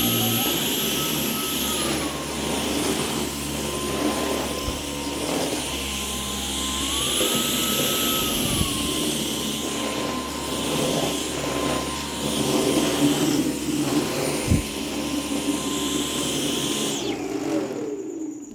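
Dyson cordless vacuum cleaner running with a steady high whine, its pitch rising briefly and settling back twice. Near the end it is switched off and the motor winds down with a falling whine.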